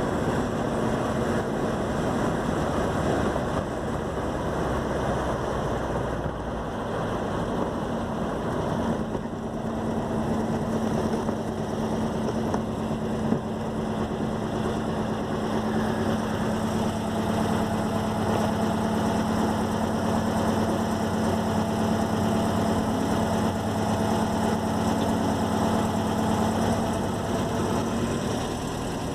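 Air-cooled Volkswagen boxer engine of a Puma GTS sports car running steadily, a continuous engine note that holds nearly one pitch throughout.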